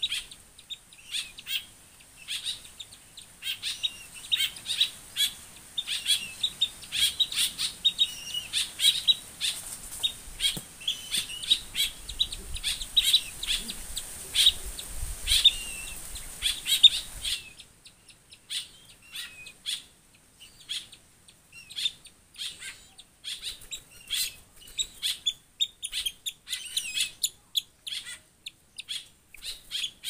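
Birds chirping: many short, high calls in quick succession. A steady hiss underneath cuts out suddenly about halfway through.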